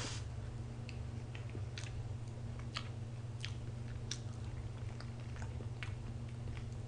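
A person chewing a mouthful of tiramisu cake, with irregular mouth clicks and lip smacks, over a steady low hum.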